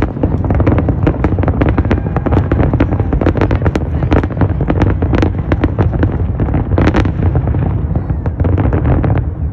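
Aerial fireworks in a finale barrage: dense overlapping booms and bangs, several a second, that stop abruptly near the end.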